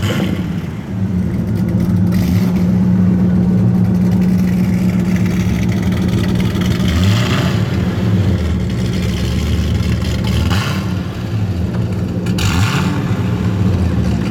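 Corvette C6 Z06's 7.0-litre LS7 V8 running through a Borla Stinger exhaust. It holds a steady note at first, then its revs rise and fall a few times in the second half.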